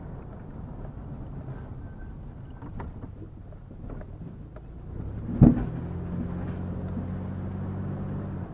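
Road and engine noise inside a moving vehicle, with one sharp thump about five seconds in, after which a steady low engine hum comes through more clearly.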